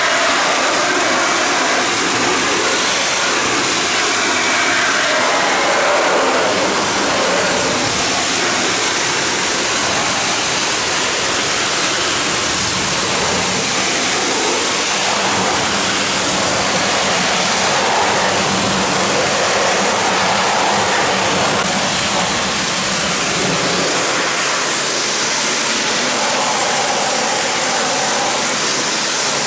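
Pressure washer spraying a steady jet of water onto a car, a continuous hiss of spray.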